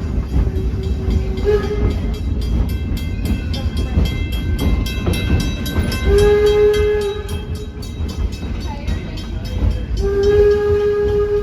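Steam locomotive whistle blowing a steady single-pitched blast that ends about a second and a half in, a short blast about six seconds in, and a longer one starting near the end. Under it runs the train's continuous low rumble and the clicking of wheels on the rails.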